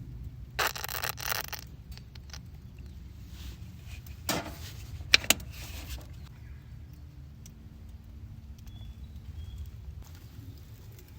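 Handling noises: short scrapes and rustles in the first few seconds, and two sharp clicks a little after five seconds, over a steady low rumble.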